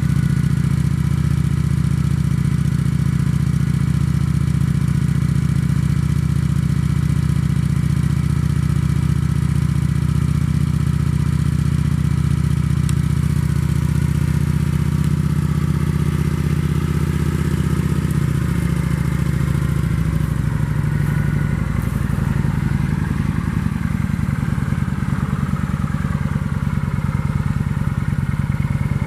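2008 Kawasaki Vulcan 900 Custom's V-twin engine running at a steady speed through its stock exhaust. Its note shifts about 18 to 21 seconds in, then holds steady again.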